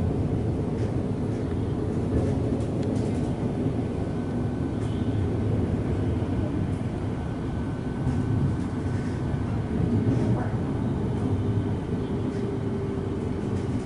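Suburban electric train heard from inside the carriage while running: a steady low rumble with a faint steady high tone and a few light clicks.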